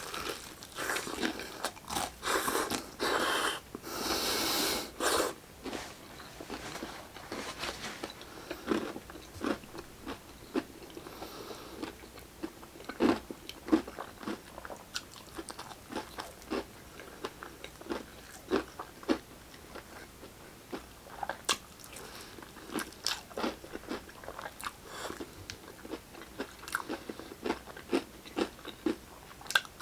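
Close-up eating sounds of a person biting into crispy fried chicken: a run of loud crunches in the first few seconds, then chewing with many short sharp clicks.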